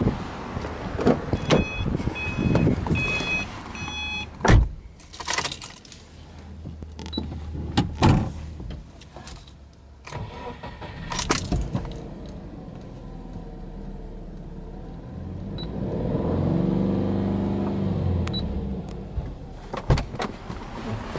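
A car's warning chime pings several times, then clicks and thumps of the door and keys. About three-quarters of the way in, the Subaru Impreza S-GT's turbocharged flat-four starts, its revs flaring up and settling back toward idle.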